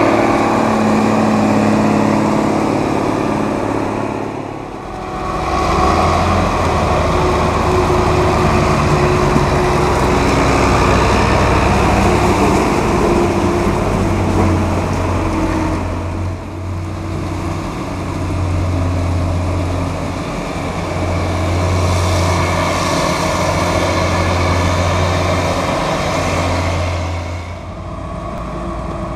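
Heavy farm-machinery diesel engines running under load, the sound swelling and easing as the machines move. There is a brief dip about five seconds in and another near the end.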